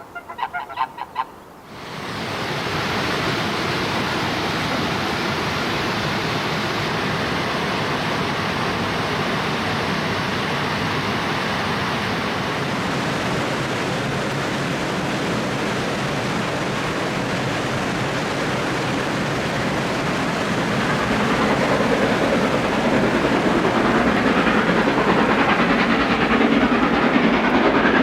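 A few geese honking in the first second or so, then a steam locomotive hauling a train up a steep bank comes into hearing about two seconds in, its steady noise growing louder over the last several seconds as it approaches.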